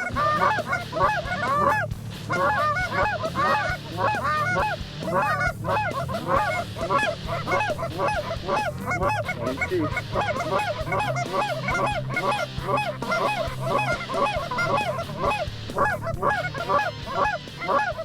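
A large flock of geese calling continuously, many honks overlapping.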